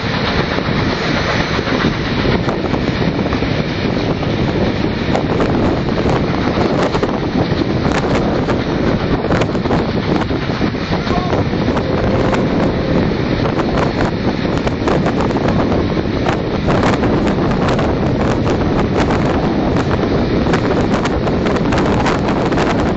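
Heavy wind buffeting the microphone over the steady running noise of a moving train, with many small crackles and knocks throughout.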